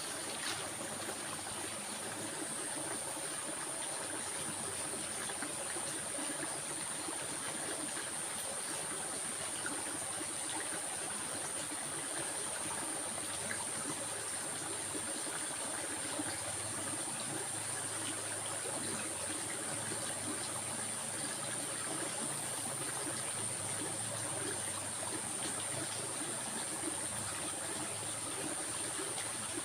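Stream water flowing and trickling steadily, with a constant thin high-pitched whine.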